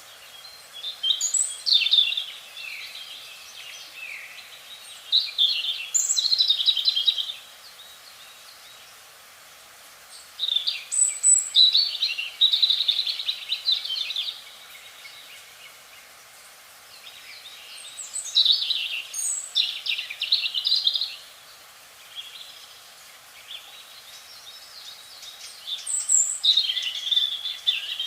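Budgerigars chirping and chattering in bursts of one to three seconds, about every eight seconds, over a faint steady hiss.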